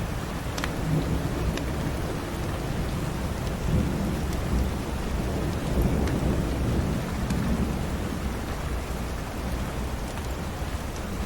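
Steady rain with a low, swelling rumble of thunder, and a few sharp crackles from a fireplace.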